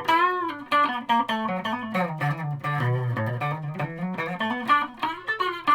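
Electric guitar (a multi-pickup Stratocaster) playing a short lick with two pickups wired in series and out of phase. It opens with a bent note, runs into quickly picked single notes, and drops to lower notes about halfway through. This setting gives what the player calls really broken sounds.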